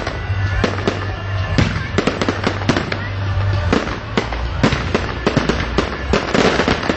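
Fireworks going off in a display: a rapid, irregular run of sharp bangs and crackles, several a second, over a steady low rumble.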